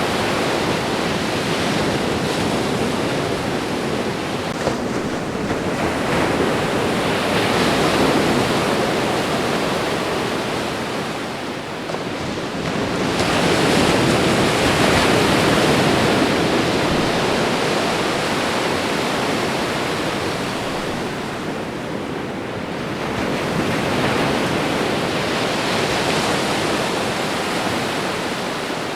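Ocean surf washing onto a shore: a continuous hiss of water that swells three times, roughly every eight to ten seconds, as waves come in, and eases between them.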